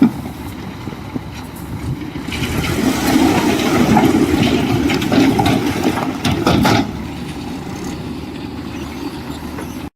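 Heavy earthmoving machine's engine running under load, growing louder in the middle and easing back after about seven seconds, then cutting off abruptly near the end.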